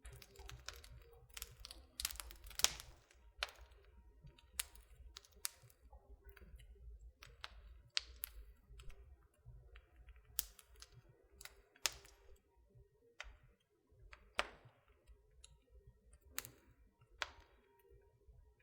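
Wood fire in a fireplace crackling: irregular sharp pops and snaps, the loudest about two and a half seconds in, over a low steady rumble.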